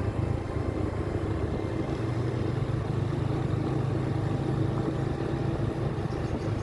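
Motorcycle engine running steadily while riding, a constant low hum.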